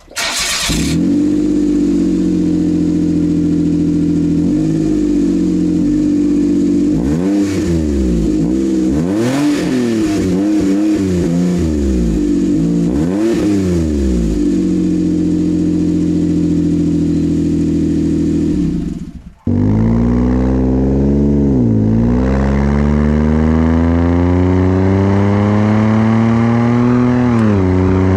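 Suzuki MR Wagon's 660 cc three-cylinder engine running through a newly fitted sports exhaust. It runs steadily, then is revved up and down several times. After a sudden break it climbs steadily in pitch for several seconds and falls off near the end.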